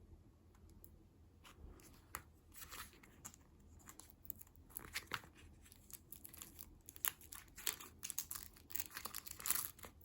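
Snack packaging being crinkled and torn open by hand, in irregular crackling rustles that grow busier and louder toward the end.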